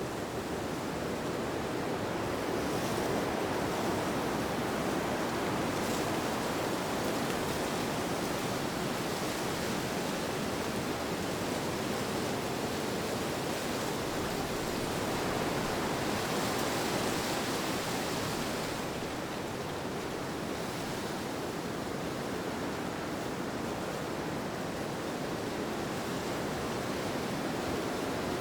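Steady rushing wind noise with no tones or rhythm. It swells a few times into a brighter hiss, most of all a little past halfway.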